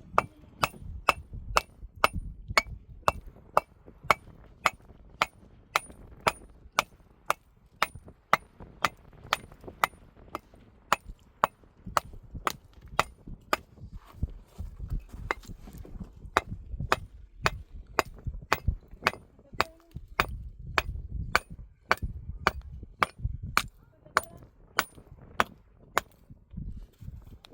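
Steady hammering: sharp blows at about two a second, each with a faint metallic ring, stopping shortly before the end.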